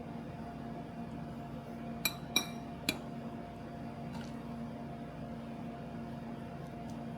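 Three light ringing clinks in quick succession, about two seconds in, like a utensil or dish knocking against ceramic or glass tableware, over a steady appliance hum.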